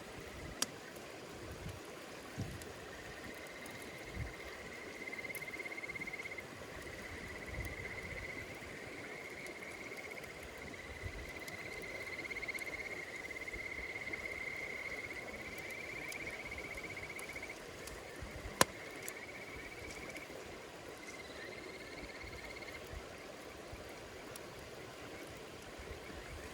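An insect trilling in long, even phrases over a crackling campfire with scattered sharp pops, one much louder about three-quarters of the way through. The trilling starts a few seconds in and stops a few seconds before the end.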